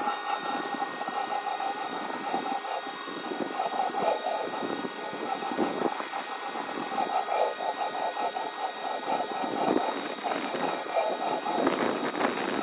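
Electric pressure washer running steadily, with a constant motor-pump whine over the hiss of water spraying at high pressure.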